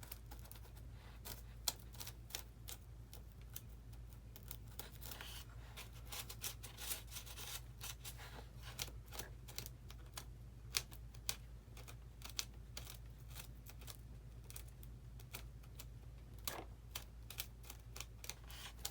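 Small flat-head screwdriver picking and scraping foam out of a channel in a foam RC airplane: a run of irregular small clicks and scratches over a steady low hum.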